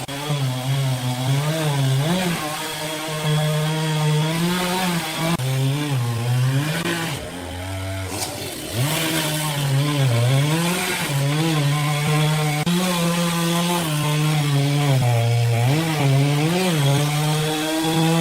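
A two-stroke chainsaw running at high speed while cutting wood. Its pitch dips again and again as the chain bogs in the cut and then recovers, and it eases off briefly about eight seconds in.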